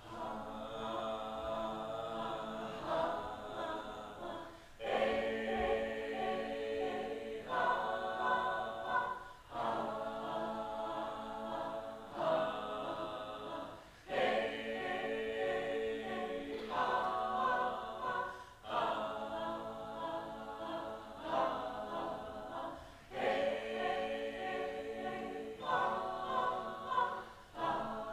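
Several voices singing a cappella in close harmony, holding chords in a repeating phrase that breaks off briefly about every four to five seconds.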